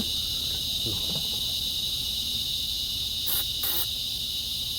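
Night insects such as crickets trilling in a steady, high-pitched chorus, with two brief rustling noises about three and a half seconds in.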